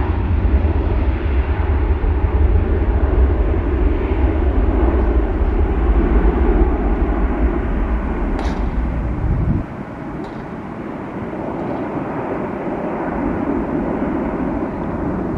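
Jet aircraft engine noise at an airport, a loud steady rush with a heavy low rumble that drops away suddenly a little over halfway through, leaving a lighter steady rush.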